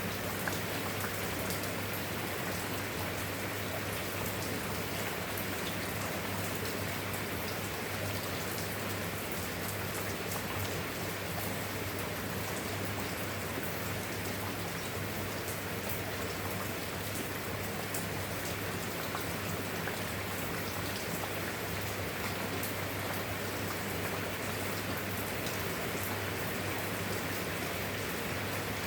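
Steady rain falling, with individual drops ticking over an even hiss, and a steady low hum underneath.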